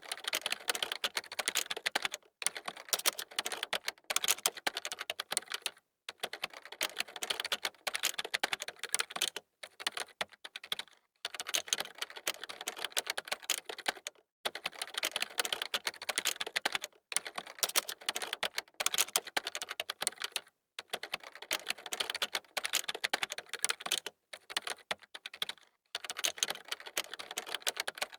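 Fast typing on a computer keyboard: rapid runs of key clicks lasting a second or a few, broken by brief pauses.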